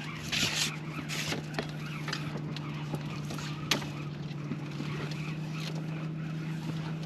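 A small motor hums steadily, with scattered sharp clicks and two short hissing noises near the start.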